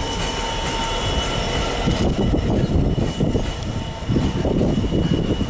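Freight train of covered bogie hopper wagons, hauled by a GB Railfreight Class 66 diesel, rolling past: a steady, uneven rumble of wagon wheels on the rails with a thin high whine over it.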